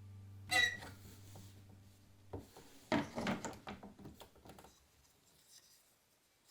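Wooden knocks and rubbing from working a tabletop rigid heddle loom: one sharp clack about half a second in, then a flurry of knocks and rubbing that dies away.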